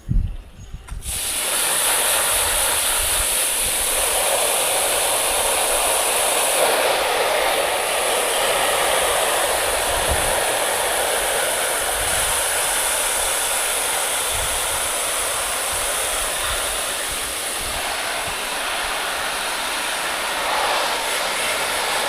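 Water hose spraying, a loud steady hiss that starts about a second in, flushing sand out of a bucket.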